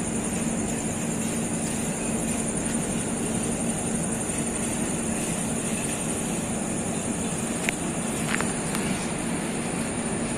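Steady running noise of a moving passenger train, with a constant low hum and a steady high whine over it. Two short clicks come close together about three-quarters of the way through.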